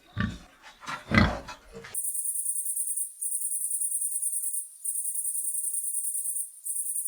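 A pig grunting in quick short bursts, then a high-pitched, fast-pulsing insect trill like a cricket's, in phrases of about a second and a half with brief breaks between them.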